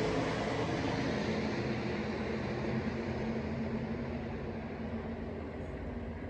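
NASCAR Truck Series race trucks' V8 engines running at speed, a steady drone that slowly fades as they pull away.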